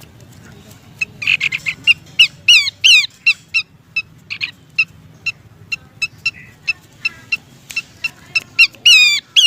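Pelanduk semak (Horsfield's babbler) calling, the female's call used as a lure for males: a rapid, uneven string of short sharp notes, with a few louder notes that slide downward in pitch about two to three seconds in and again near the end.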